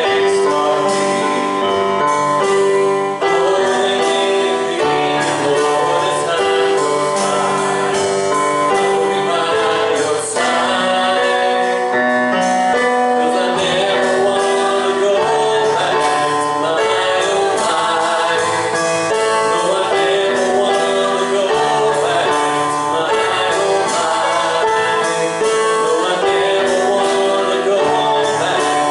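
Congregational worship music: voices singing a gospel song with keyboard accompaniment, in a steady flowing rhythm.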